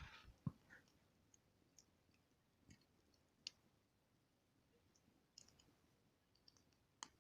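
Wood campfire crackling quietly with scattered sharp pops and snaps: two close together at the start, a louder one about three and a half seconds in, and another near the end.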